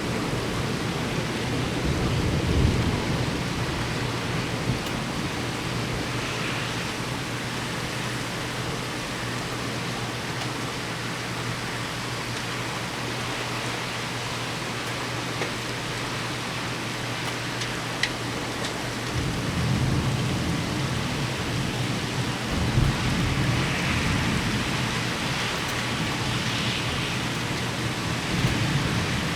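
Heavy thunderstorm rain falling steadily, with thunder rumbling at the start and again in long rolls through the last third.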